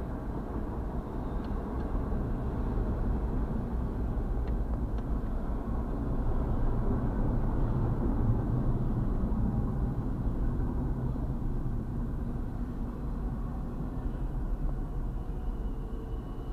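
Double-stack intermodal freight train's well cars rolling past close by: a steady rumble of wheels on rail, swelling a little midway and then easing, heard from inside a vehicle.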